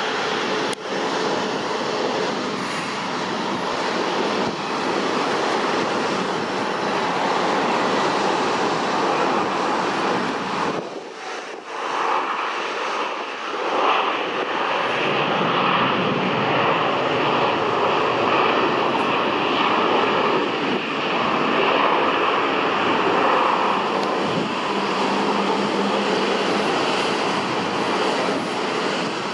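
Jet engine noise of a landing Airbus A350-900 airliner, its Rolls-Royce Trent XWB engines producing a steady loud rush that dips briefly about eleven seconds in and then swells again.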